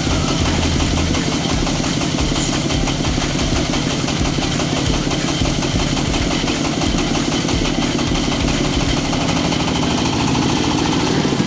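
Diesel engine of a mini self-loading concrete mixer running steadily.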